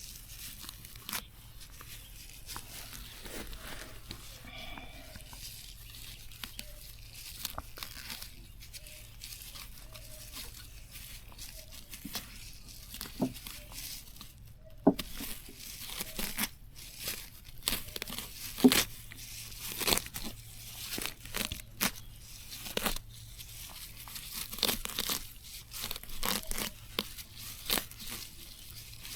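Plants being torn and pulled by hand: irregular tearing and snapping, coming faster in the second half.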